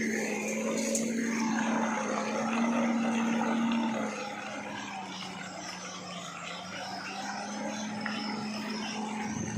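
Truck engine running with a steady drone, growing somewhat quieter about four seconds in.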